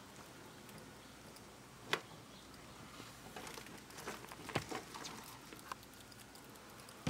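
Faint scattered taps and scratching in a plastic feeding tub as baby bearded dragons feed on dubia roach nymphs. There is one sharp click about two seconds in and a cluster of clicks in the middle.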